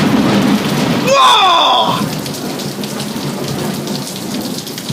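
Heavy rain pouring down with a low rumble of thunder during a thunderstorm. A short pitched sound, falling in pitch, cuts through about a second in.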